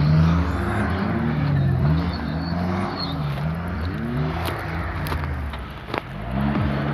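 Off-road SUV's engine revving up and down as it drives over rough ground, its pitch rising and falling repeatedly, with a brief drop in loudness near the end.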